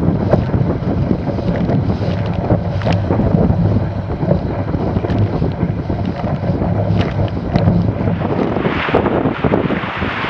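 Heavy wind buffeting the microphone of a Weta trimaran under sail, with water rushing and splashing along the hull.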